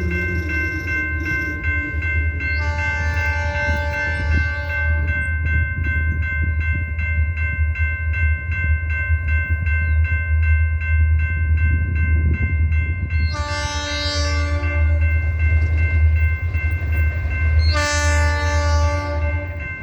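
Canadian National diesel locomotive 6254 sounding its air horn in three long blasts, about three seconds in, about thirteen seconds in and near the end, over the steady low rumble of its engine. A grade-crossing bell rings steadily throughout.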